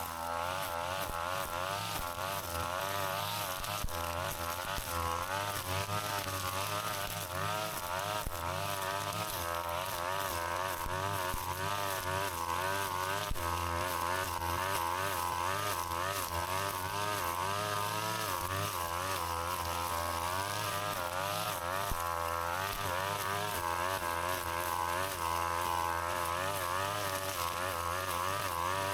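Brush cutter engine running steadily, its pitch wavering up and down continuously as the line or blade cuts through grass and weeds.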